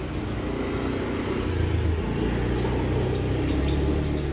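Low rumble of a motor vehicle engine, growing gradually louder and easing a little near the end.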